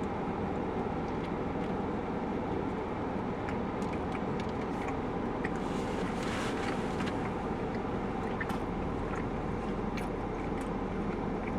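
Steady low hum, with faint scattered clicks and rustles of a chili cheese dog being eaten.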